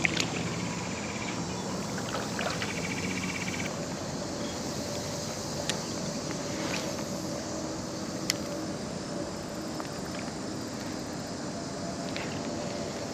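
Steady hum and rush of traffic from a nearby busy road and highway. An insect buzzes briefly in the first few seconds, and a few sharp clicks stand out.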